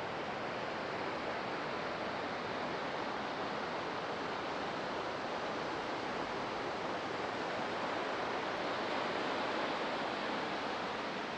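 Ocean surf: a steady wash of breaking waves that swells a little near the end.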